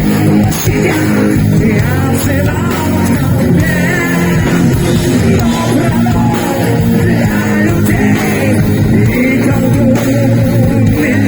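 Live heavy metal band playing loud, with electric guitars and drums under a wavering melody line.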